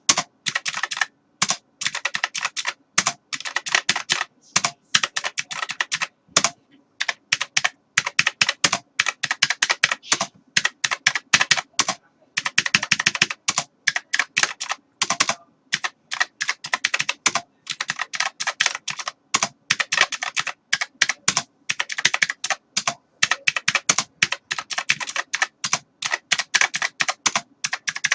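Computer keyboard being typed on: rapid runs of key clicks, a few keys a second and faster, broken by short pauses.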